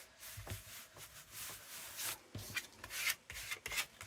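Glued paper being rubbed and smoothed down onto a journal page: a quick, irregular run of short, scratchy rubbing strokes.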